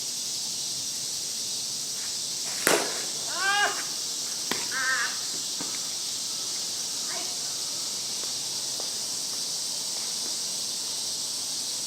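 A softball bat cracks against a pitched ball about two and a half seconds in, followed by a couple of short, harsh calls with a bending pitch and a lighter click, over a steady high-pitched hiss.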